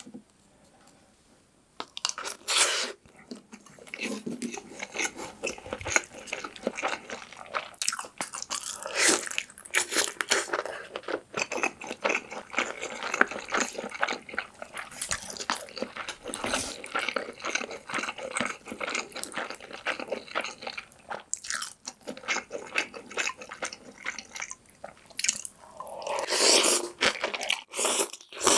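Close-miked eating: chewing mouthfuls of rice and Spam kimchi stew, with many quick, wet mouth clicks and smacks. Near the end comes a longer slurp as saucy food is sucked into the mouth.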